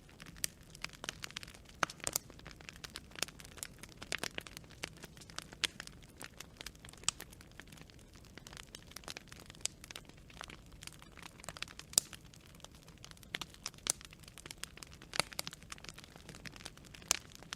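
Wood fire crackling: irregular sharp pops and snaps from burning branches, several a second, over a faint low hiss of the flames, with a louder pop about twelve seconds in.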